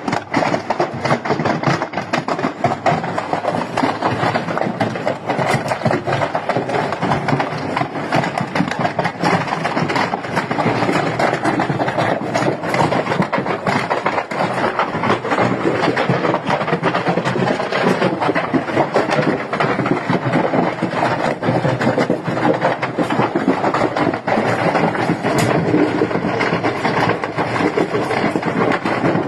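Firecrackers crackling and popping in rapid, continuous succession as a shop's stock of fireworks burns.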